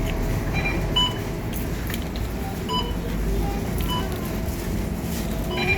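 Scania K230UB bus's five-cylinder diesel engine running steadily, heard from inside the bus. Several short electronic beeps come about a second apart.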